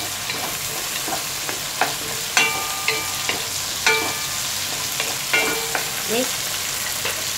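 Sliced onion, garlic, tomato and lemongrass sizzling in hot oil in a pot while a wooden spatula stirs them, with a steady hiss and several knocks of the spatula against the pot, a few of which ring briefly.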